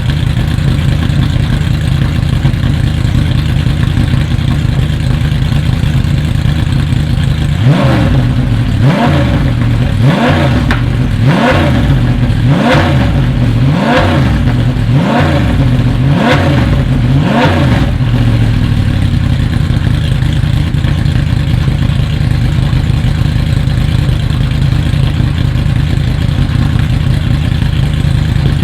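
Brabham BT62's 5.4-litre V8 idling, then blipped about nine times in quick succession, each rev rising and falling in pitch, before settling back to a steady idle.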